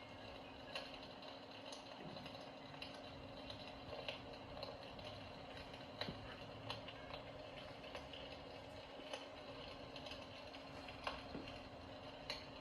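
Electrolux electric fireplace running: a faint steady hum with irregular small clicks and crackles scattered through it.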